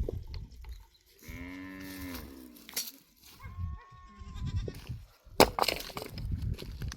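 A farm animal gives a drawn-out call that rises and falls in pitch, lasting over a second, then a shorter, higher call follows. A low rumble runs underneath, and a sharp knock, the loudest sound, comes about five and a half seconds in.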